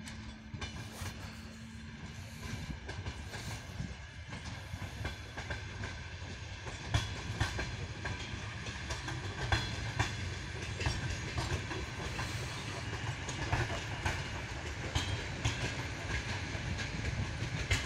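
ER9M electric multiple unit passing, its wheels clicking over the rail joints over a steady rumble. The sound grows louder as the cars come alongside, about seven seconds in, with repeated sharp clacks from then on.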